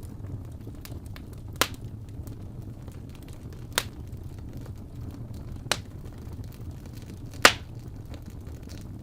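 Wood fire burning in a fireplace: a steady low rumble with small crackles, and four sharp pops about two seconds apart, the loudest near the end.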